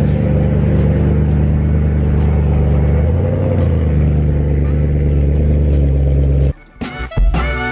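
BMW E92 M3's 4.0-litre V8 running at a steady idle through its exhaust. It cuts off abruptly about six and a half seconds in, and music starts.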